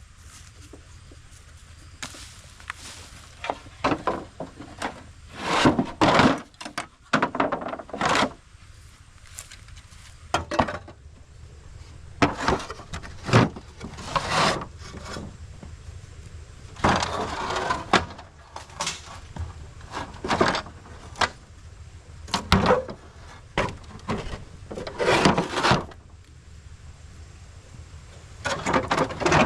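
Irregular wooden knocks, clatters and scrapes: pieces of wood being struck, dropped or dragged, some sharp and short, some drawn out over a second or so.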